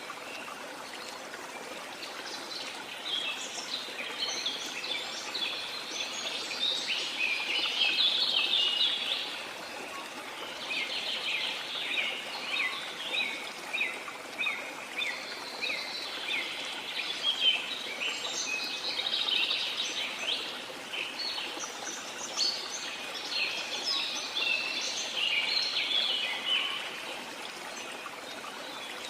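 Rainforest ambience: many birds chirping and calling in dense, overlapping bursts over a steady wash of falling or running water.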